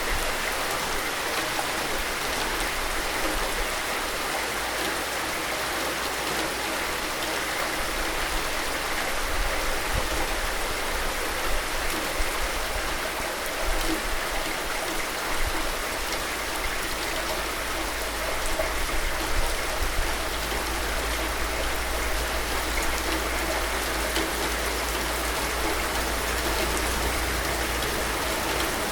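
Steady rain falling, an even hiss with a low rumble underneath and a few slightly louder spatters.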